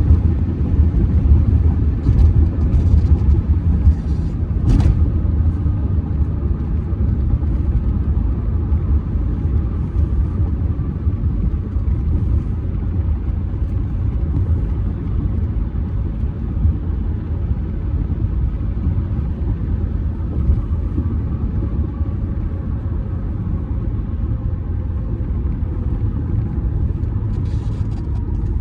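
Cabin noise of a 2007 Audi A6 C6 with the 2.0 TDI four-cylinder turbodiesel, cruising at highway speed: a steady low rumble of tyres, road and engine. A single sharp knock sounds about five seconds in.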